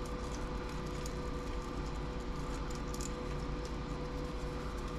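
Steady workshop hum with a faint, even tone, and a few faint light ticks and scrapes of small parts being worked by hand.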